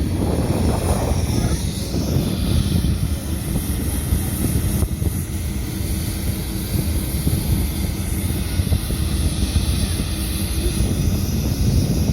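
Steady low rumble of heavy engines running, with no pauses.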